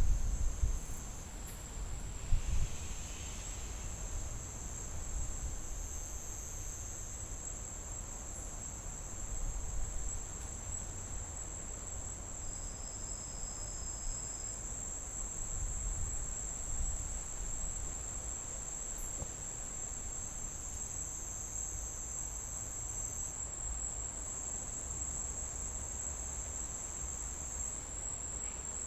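Chorus of crickets trilling steadily in a continuous high-pitched drone, with a second trilling layer that stops and restarts a few times. A low rumble sits underneath, with a couple of dull thumps in the first few seconds.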